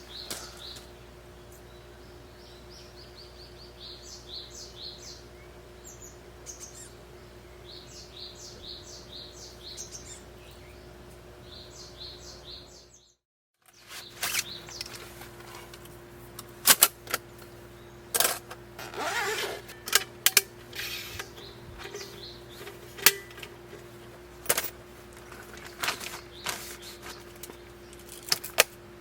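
Birds chirping in quick repeated calls over a steady low hum. After a brief dropout, this gives way to a series of sharp clicks and knocks and a rustle from objects being handled.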